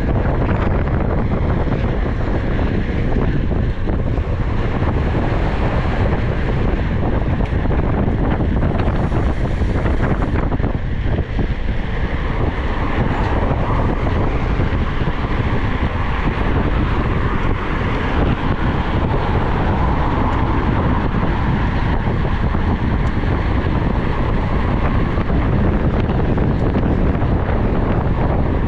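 Loud, steady wind rumble on the microphone, with vehicle noise mixed underneath.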